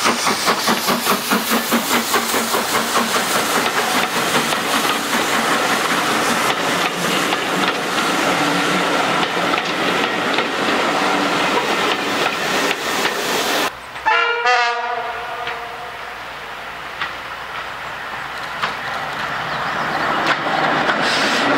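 BR Standard Class 4 4-6-0 steam locomotive 75078 passing with its train: rhythmic exhaust beats for the first couple of seconds, then the coaches rolling by with wheels clicking over the rail joints. About 14 s in, after a cut, a diesel railbus sounds its horn and then runs closer, getting steadily louder.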